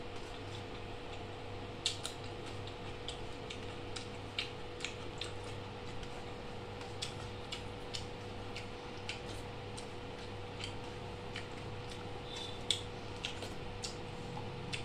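A person chewing a mouthful of rice and chicken, with irregular soft mouth clicks and smacks, over a steady low hum.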